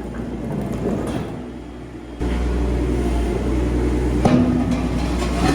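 Compact machine's diesel engine running under work, stepping up louder about two seconds in, with a sharp metal clank a little after four seconds.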